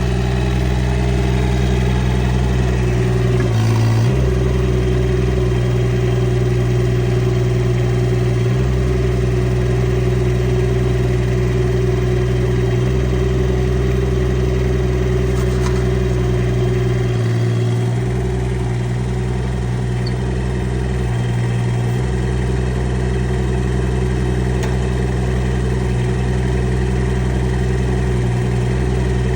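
Rippa R15 mini excavator engine running steadily, its note changing briefly a few times as the load shifts.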